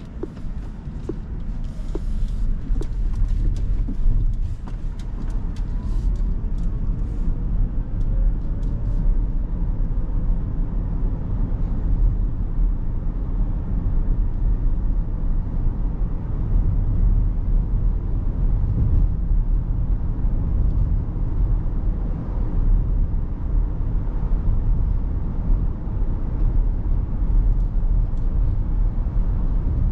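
Road and tyre rumble inside the cabin of a 2023 Rivian R1S quad-motor electric SUV as it drives, steady and low-pitched. There is a faint rising whine in the first several seconds as it gets under way, and scattered light clicks during the first nine seconds or so.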